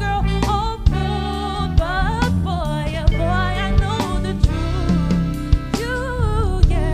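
Live band playing a soul ballad: drum kit, bass and keyboard chords under a wavering lead melody line, with sharp drum hits every second or so.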